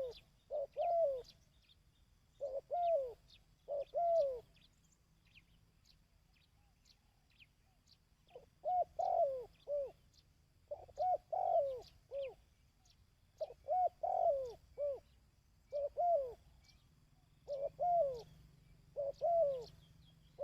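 A dove cooing in repeated short phrases of two to four falling coos, with a pause of a few seconds after the first phrases. This is the 'kích bổi' coo used to train decoy doves. Faint high chirps of small birds and a low steady hum sit under it.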